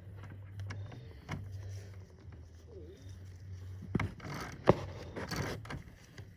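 Small metal clicks and scraping as a battery cable terminal and its bolt are handled and the bolt is started by hand, checked so it does not cross-thread. A busier run of clinks and scrapes comes about four seconds in, with one sharp click, over a steady low hum.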